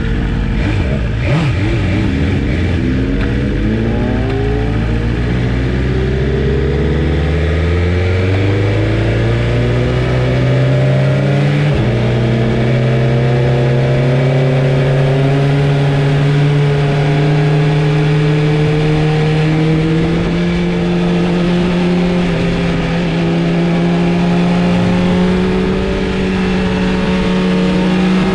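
Sport motorcycle engine accelerating, its pitch climbing steadily; about twelve seconds in it drops a little at an upshift, then keeps rising slowly.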